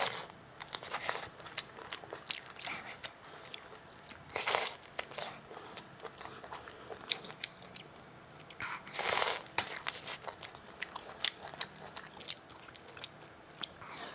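Close-miked chewing and biting on boiled octopus dipped in Thai fish sauce, a run of short crunchy clicks with two longer, louder mouth noises partway through.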